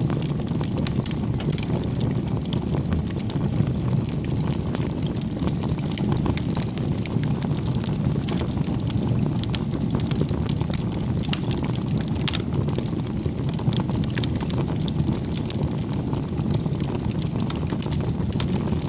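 Wood fire burning with a steady low rush and frequent sharp crackles and pops.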